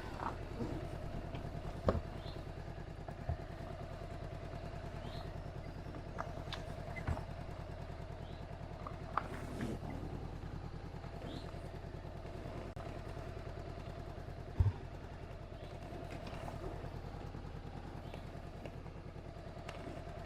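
Honda CB500X's parallel-twin engine running steadily, with a few short sharp knocks and clicks.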